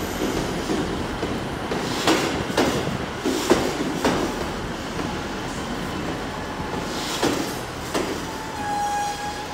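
A train running slowly through the station, its wheels knocking irregularly over rail joints and points. A steady high tone sets in near the end.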